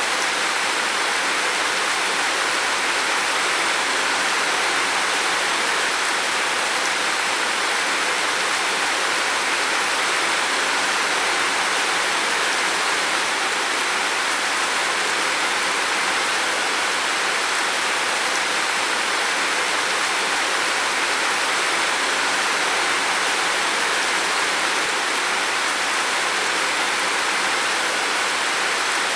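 Heavy rain falling steadily on a roof: a dense, unbroken hiss with no distinct drops or pauses.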